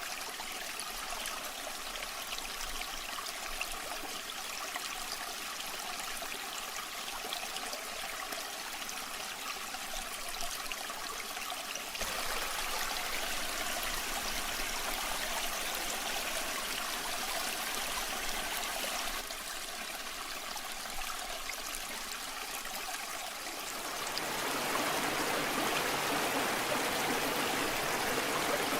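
Waterfall water rushing steadily. It gets abruptly louder about twelve seconds in, dips for a few seconds and swells again near the end.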